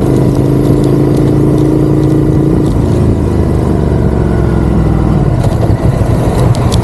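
Ducati Monster's V-twin engine running under way at a steady speed, its pitch dropping about three seconds in as the throttle eases off. A few short clicks come near the end.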